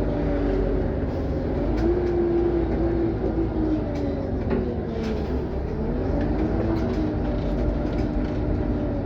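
Scania OmniCity city bus under way: its diesel engine and drivetrain give a whine that rises and falls in pitch several times over a steady road rumble, with occasional light rattles.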